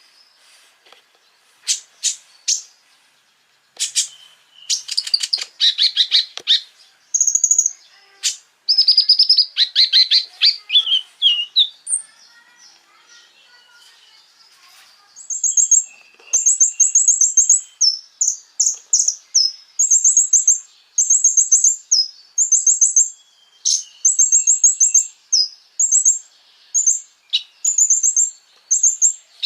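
Konin, a small songbird, singing: fast buzzy trills in the first half, then a long run of short, very high chirped phrases repeated in quick succession.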